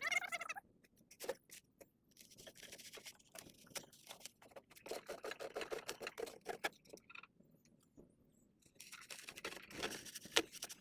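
Hands fitting and fixing a styrofoam block in place among rebar: irregular scraping and rustling with scattered short clicks.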